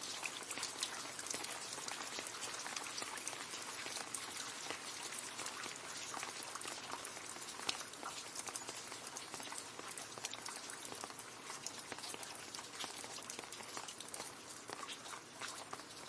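Steady rain falling into a puddle: a dense hiss of many small drop splashes and plinks, easing slightly toward the end.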